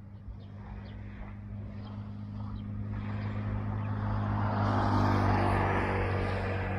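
A motor vehicle passing by: a steady engine hum under a rushing noise that grows louder to a peak about five seconds in, then starts to fade.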